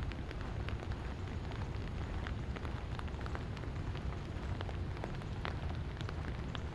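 Light rain falling, with many separate raindrops ticking sharply over a steady patter. A constant low rumble lies underneath.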